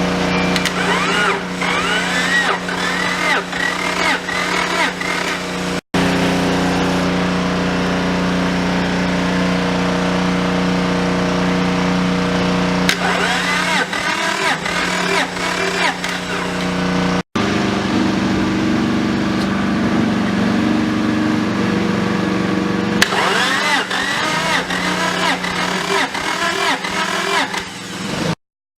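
Honda H23A 2.3-litre inline-four engine running at a steady idle, with stretches of a repeated rising-and-falling whine about twice a second.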